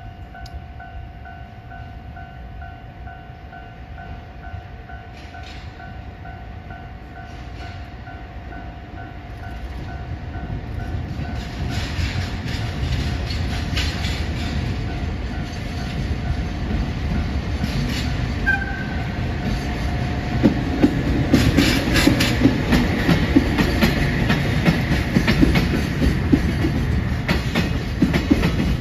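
Freight train drawn by a red electric locomotive approaching and passing with a long line of container wagons: the rumble grows steadily louder, and in the last third the wagons pass close with a rhythmic clickety-clack of wheels over rail joints.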